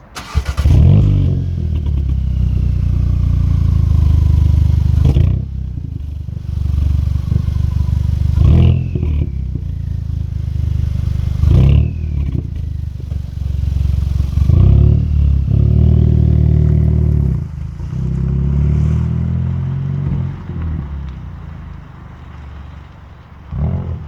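Volkswagen Scirocco 2.0 TSI turbocharged four-cylinder petrol engine heard through a Remus cat-back exhaust with a Supersprint middle pipe, revved several times with rises and falls in pitch and settling back between revs. The exhaust still has its catalytic converter.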